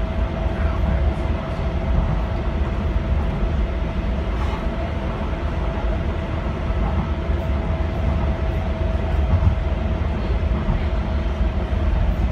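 Docklands Light Railway train running along the track, heard from inside the leading car: a steady low rumble of wheels on rail with a steady whine over it.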